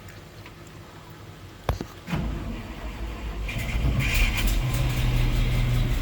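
A click, then the starter cranking the GMC 305 V6 engine of a truck that has sat for years, a steady low turning-over that grows stronger and does not catch. The engine is being cranked to prime a dry fuel system and draw fuel up to the carburettor.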